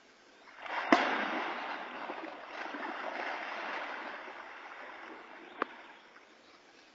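A sudden heavy splash in water about a second in, then several seconds of churning, splashing water that gradually dies away, with a single sharp click near the end.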